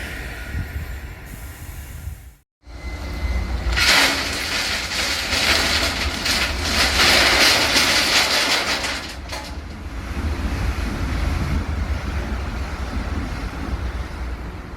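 A train passing on a track nearby, wheels clattering over the rails, loudest from about four to nine seconds in and then easing to a steady rumble. The sound drops out for a moment shortly before the train becomes loud.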